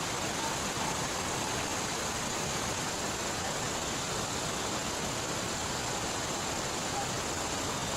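Steady, even rushing of heavy rain together with flowing river water, with no distinct clicks or other events.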